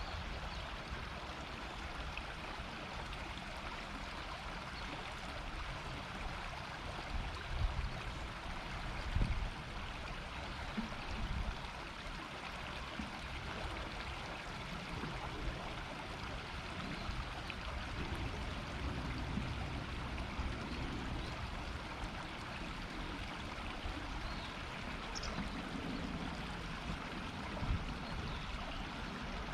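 River water murmuring steadily over stones, with a few brief low bumps near the start and again near the end.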